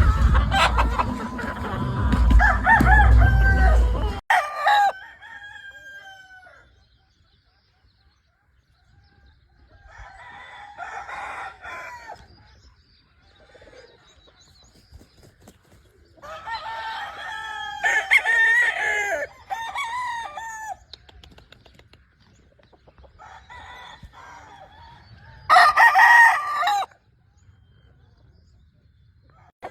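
Gamefowl roosters crowing again and again, several separate crows a few seconds apart. A low rumble runs under the calls for the first four seconds and then stops.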